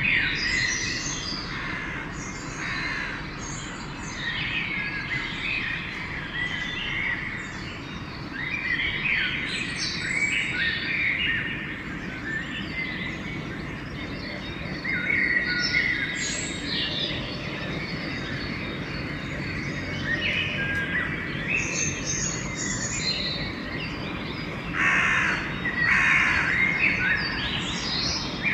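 Dawn bird chorus: many songbirds chirping and singing in overlapping short phrases, with crows cawing, the loudest harsh calls coming in a cluster near the end. A steady low background noise lies under the birds.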